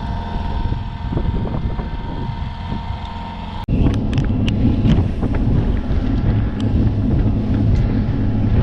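Boat motor running steadily while wind buffets the microphone, with scattered small knocks. About three and a half seconds in, the sound breaks off abruptly and comes back as a louder, heavier rumble.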